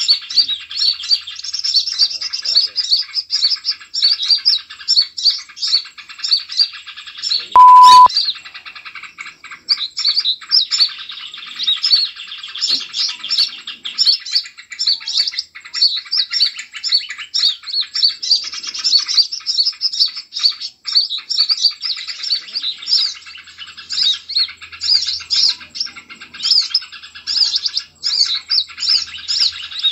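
Busy chorus of small birds chirping and twittering without a break. About eight seconds in there is a loud steady beep lasting about half a second.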